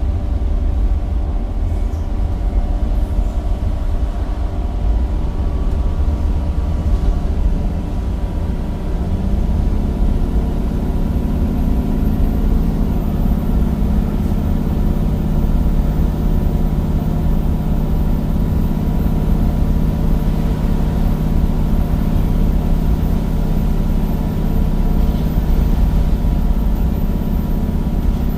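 Temsa Avenue bus's replacement Cummins diesel engine running under way through its ZF gearbox, a steady low drone. About ten seconds in the engine note rises, then holds steady.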